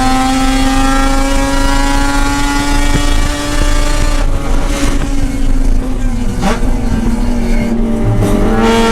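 Mazda RX-8's two-rotor Renesis rotary engine at high revs under load, its note climbing slowly. About four seconds in the revs fall away with two sharp dips, as on lifting and downshifting for a corner, then the engine pulls hard again near the end.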